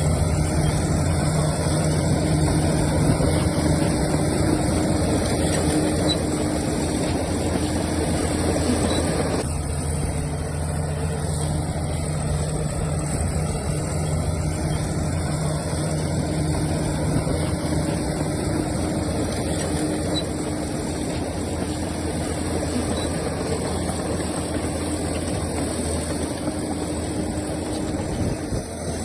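Diesel engine of heavy earthmoving machinery running steadily near idle, with an abrupt change in the sound about nine seconds in.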